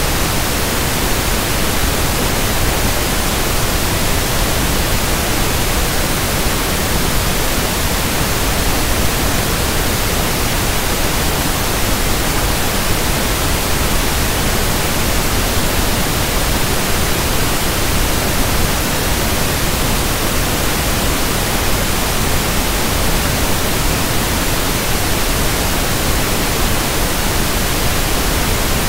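Synthetic pink noise (1/f noise): a steady, even hiss that does not change.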